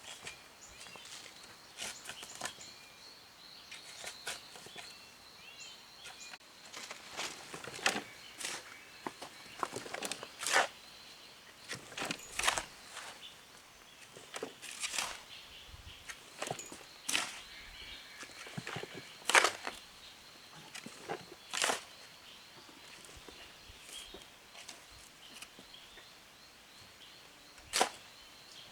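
Irregular sharp strikes and scrapes of hand work, one every second or two and some much louder than others, over a faint steady high-pitched whine.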